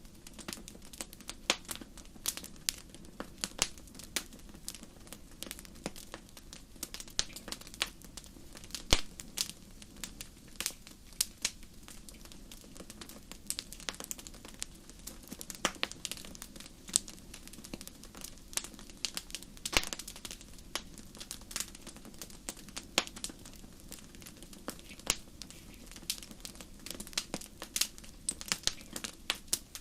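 Wood campfire crackling: irregular sharp pops and snaps, several a second, some much louder than others, over a faint steady low rumble of the burning fire.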